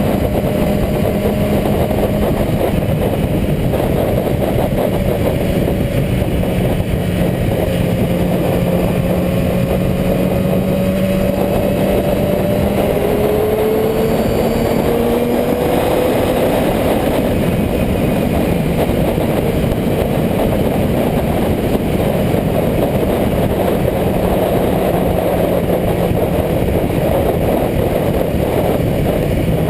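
Motorcycle engine running at a steady pace, its note drifting slowly up and down over a constant rushing noise.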